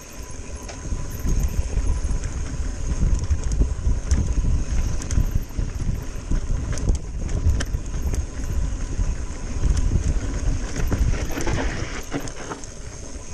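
Mountain bike riding a rough trail: heavy wind rumble on the microphone, with the tyres and bike clattering and knocking over rocks and roots.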